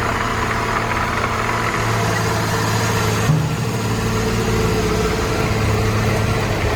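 Heavy haul truck's diesel engine running steadily, its low note growing stronger about two seconds in.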